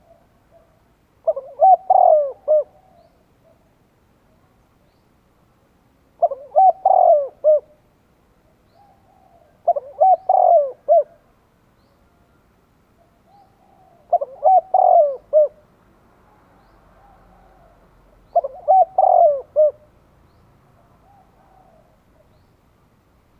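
Spotted dove singing its calling song: five loud cooing phrases, one about every four seconds, each a quick run of several coos, with soft low coos in the gaps.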